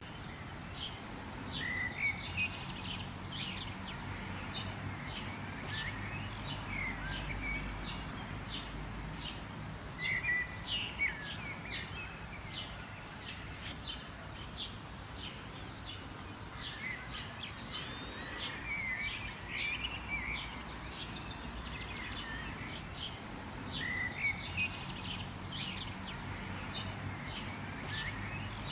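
Birds singing and chirping: many short high chirps and warbling phrases following one another, over a steady low background hum.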